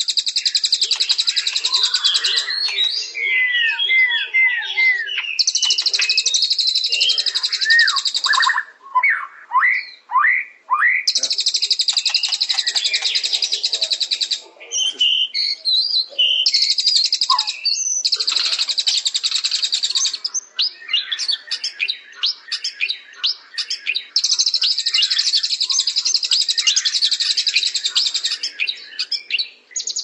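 Songbird song: long, rapid, buzzy high trills of two to three seconds each, repeated several times. They alternate with runs of short sweeping whistled notes and quick chirps.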